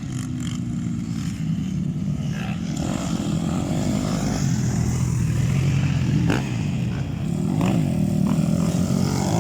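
Motocross dirt bike engines running on the track, revving up and down so the pitch rises and falls, with a couple of short sharp knocks in the second half.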